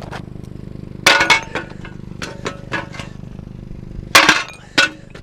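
Hard objects clanging and clinking as discarded items are handled and knocked together: a string of sharp metallic knocks, the loudest about a second in and again about four seconds in, over a steady low engine hum.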